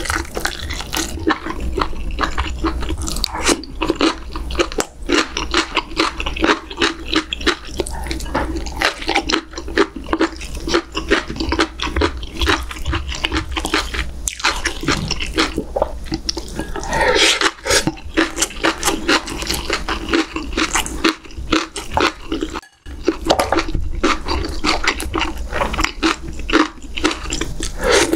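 Wet eating sounds of a person chewing braised beef short rib meat from doenjang stew: rapid, continuous smacking and clicking mouth noises.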